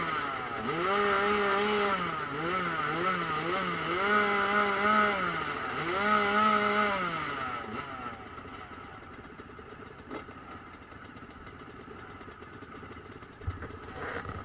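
Motocross bike engine revving hard on the track, its pitch repeatedly climbing and dropping with quick blips of the throttle, then fading away after about eight seconds.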